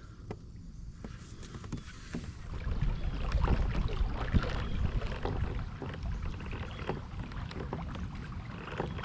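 Water sloshing and scattered knocks around a fishing kayak, over a low rumble that swells about three seconds in and eases a few seconds later.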